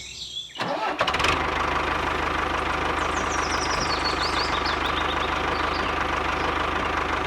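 A small engine starts up just under a second in and runs steadily with a fast, even knocking beat.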